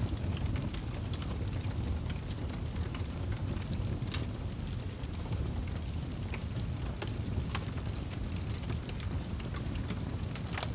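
Rain with a steady low rumble, and a fire crackling with scattered sharp pops.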